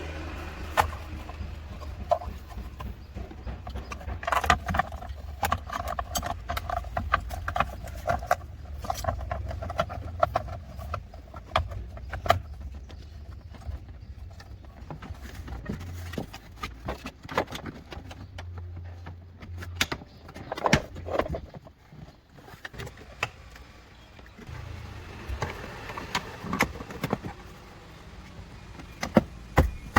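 Scattered sharp clicks and metallic knocks, like tools and parts being handled, over a steady low hum. A held mid-pitched tone sounds for several seconds early on.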